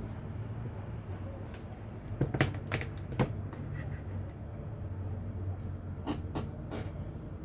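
A handful of sharp clicks and taps, a cluster of them a couple of seconds in and a few more near the end, over a steady low hum.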